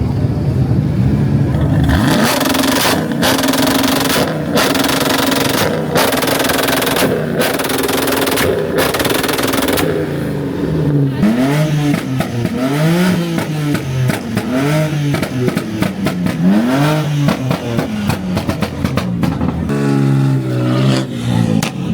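A car engine revved hard and loud. It first runs high with a harsh exhaust that cuts in and out, then is blipped up and let fall about four times, and near the end it is held at a high, steady rev.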